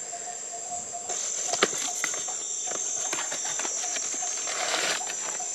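Insects trilling steadily at a high pitch, louder from about a second in, with a fainter pulsing note lower down and scattered soft clicks and taps.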